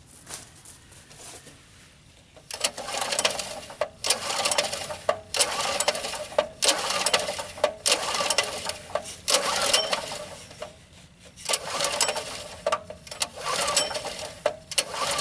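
A portable generator's small gasoline engine being cranked over again and again, in about nine short bursts of rattling with brief breaks between, without catching. It isn't trying to fire at all, which the owner takes for no spark.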